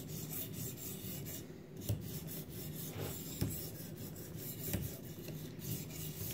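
Diamond sharpening stone on a guided knife sharpener scraping along a steel recurve pocketknife edge in repeated strokes, the stone lightly oiled with mineral oil. A few light clicks sound among the strokes.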